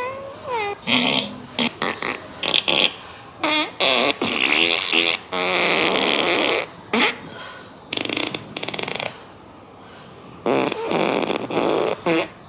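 Recorded fart sound effects from a phone app, played one after another: a string of separate short and longer blasts, some with a wobbling pitch, the longest lasting nearly two seconds midway.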